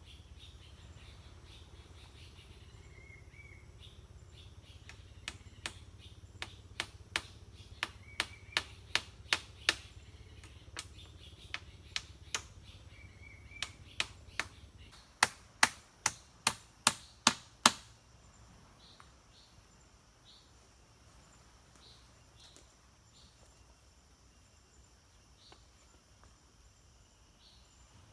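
Repeated sharp strikes on wood, coming in quick runs of about three a second, with the loudest run a little past the middle. A bird chirps a few times in the first half.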